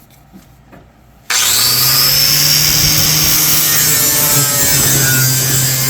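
Corded Bauer angle grinder switched on about a second in, then running steadily at full speed with a constant motor hum while its 4.5-inch quick-strip disc scours a surface with a loud, harsh rasp.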